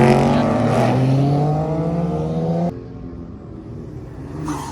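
A car engine accelerating hard, its pitch climbing steadily, then cutting off abruptly about two and a half seconds in; a quieter engine sound continues after.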